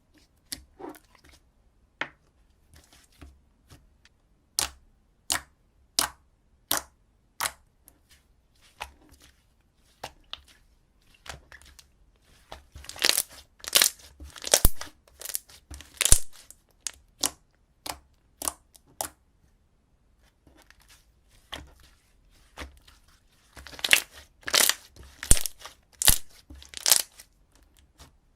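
Slime being squeezed and stretched, giving off sharp pops and crackles: single pops at a steady pace at first, then two longer bursts of rapid crackling.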